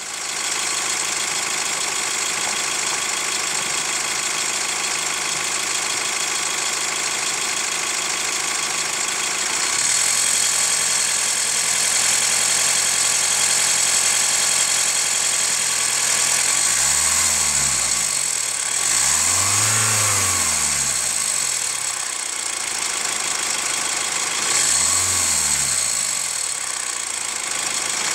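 Hot Hyundai ix35 CRDi four-cylinder diesel engine idling, stepping up to a slightly higher speed about ten seconds in, then given several brief throttle blips that rise and fall. The 'khrum-khrum' crunching knock that comes back as the oil ages and rings louder with a little throttle is what is being recorded; the owner suspects the hydraulic lifters or the timing chain tensioner.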